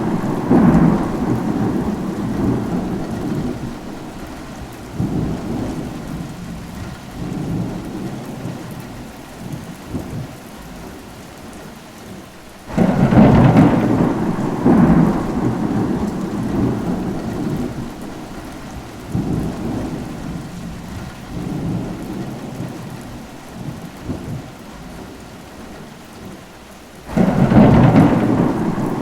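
Rain with rolling thunder: a rumble fading away at the start, a sudden thunderclap about 13 seconds in that rolls on and dies down over about ten seconds, and another clap near the end.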